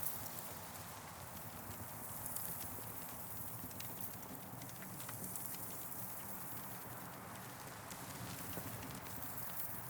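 Campfire crackling: irregular sharp pops and ticks over a steady hiss that swells and eases a few times.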